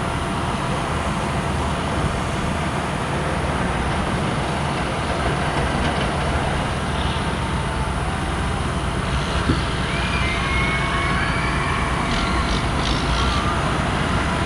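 Steady rumble of vehicle and road noise.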